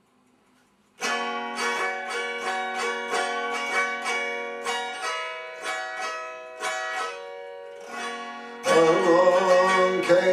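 Instrumental intro of a traditional American folk song on a plucked string instrument, single picked notes ringing about two a second after a second of silence. Near the end the playing grows louder and a man's singing voice comes in.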